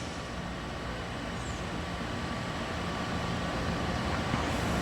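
Steady low rumbling noise that slowly grows louder.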